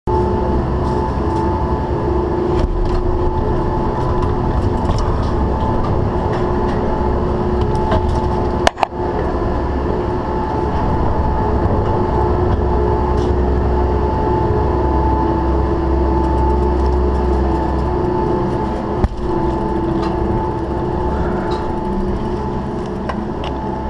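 Steady mechanical rumble with a constant two-note hum and scattered light clicks, with one brief sharp knock about nine seconds in.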